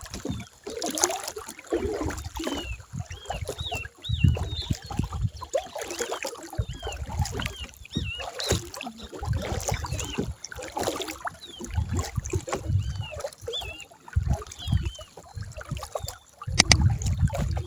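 Kayak on the water, with splashing and irregular low knocks, while many birds chirp short, repeated calls throughout.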